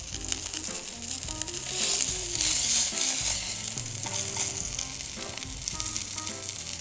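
Tuna loin searing in hot oil in a very hot pan: a steady sizzle, loudest about two to three seconds in.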